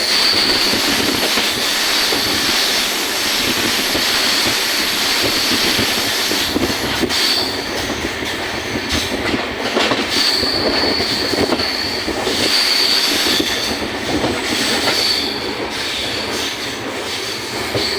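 Indian Railways train running on the track with a steady rumble and rattle. A high-pitched wheel squeal comes and goes, dropping out for a few seconds around the middle and returning in short stretches.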